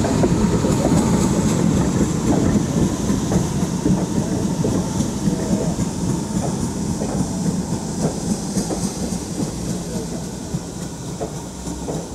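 A train running on the rails, with wheels clattering over the rail joints, loudest at first and slowly getting quieter.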